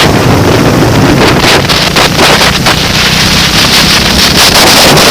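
Heavy wind buffeting on the microphone, over the steady sound of a racing vehicle's engine underneath.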